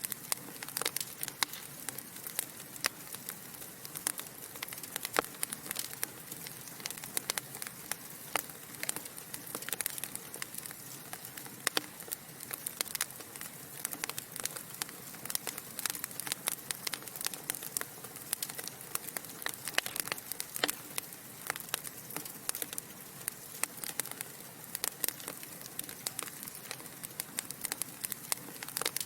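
Logs burning in a fireplace, crackling steadily with many small, irregular sharp pops over a soft hiss.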